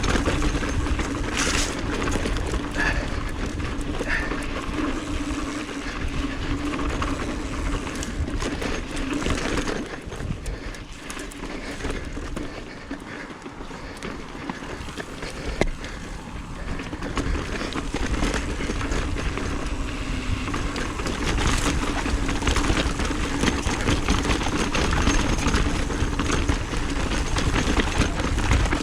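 Mountain bike riding down a rough dirt trail: steady tyre and wind noise with scattered rattles and knocks, easing off for a few seconds near the middle.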